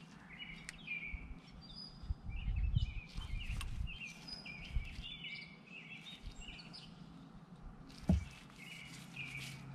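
Birds chirping and calling in short, repeated high notes, over low rumbling bumps early on and a single sharp knock about eight seconds in.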